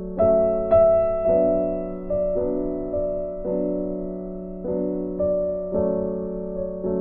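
Soft background piano music: slow, sustained chords with notes struck about once a second.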